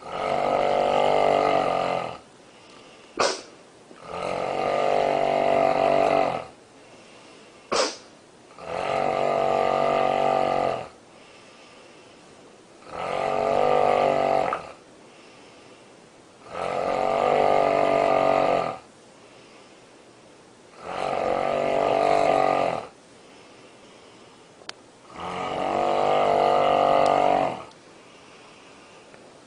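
A woman snoring heavily in sleep: seven loud, rattling snores of about two seconds each, coming roughly every three and a half to four seconds with quiet breaths between. Two short sharp clicks fall in the gaps after the first and second snores.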